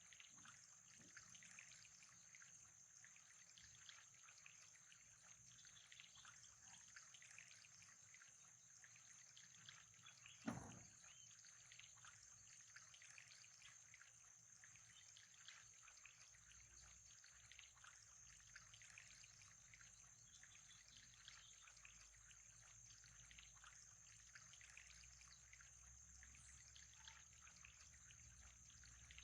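Faint trickling water with a thin, steady high whine behind it, and a single dull thump about ten seconds in.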